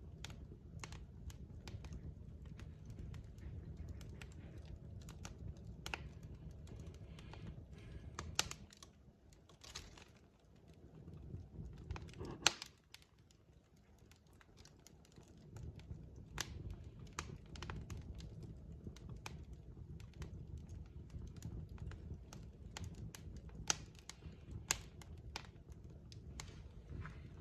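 Wood fire crackling in a fireplace: irregular sharp pops and snaps over a low, steady rumble of burning logs, with one louder pop about twelve seconds in.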